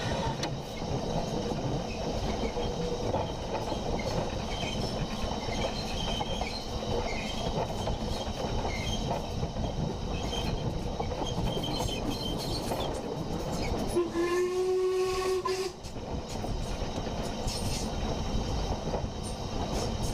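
Moving train running on the rails with a steady rumble, and one whistle blast about 14 seconds in lasting under two seconds.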